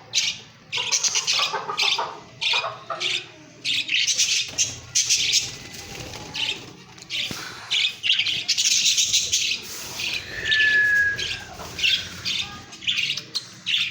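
A group of pet parakeets chattering with rapid high chirps and squawks, with one clear, slightly falling whistled note about ten seconds in.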